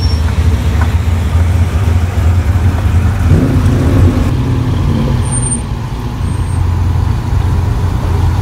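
A classic car's engine running at low speed: a loud, steady low rumble that rises a little about three seconds in.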